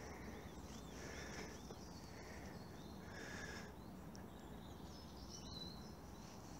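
Faint calls of small songbirds: a run of short arched chirps in the first couple of seconds, then more scattered high notes, over a low steady background rumble.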